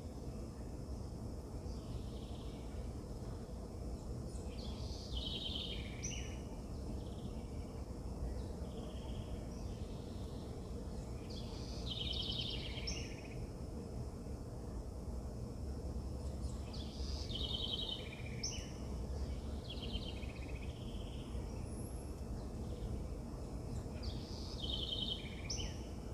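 A songbird repeats a short phrase with a quick trill about four times, every five or six seconds, over a steady low outdoor rumble.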